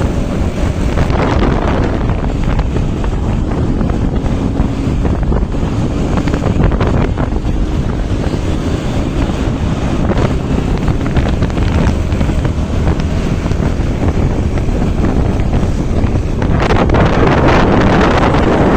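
Heavy wind buffeting the microphone over the low rumble of a moving vehicle on the road. It grows louder and brighter near the end.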